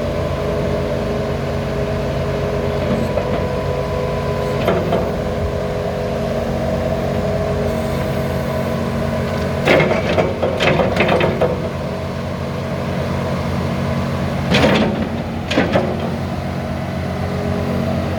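Case SV300 skid steer's diesel engine running at a steady speed, with a few loud clunks from the machine: a single one early, a rattling cluster about ten seconds in, and two more near the end.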